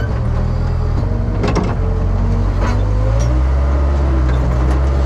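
The diesel engine of a worn Case 580K backhoe running steadily, its note shifting about three seconds in. A few sharp metallic knocks sound over it, about a second and a half in and again near the three-second mark.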